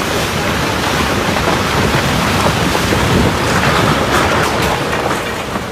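Loud, steady rushing noise of the kind made by wind, heavy rain or rushing water, with a few faint crackles a little after the middle.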